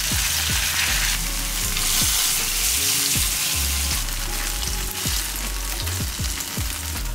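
Spice-coated paneer cubes shallow-frying in oil in a nonstick pan, a steady sizzle that swells for a few seconds about a second in.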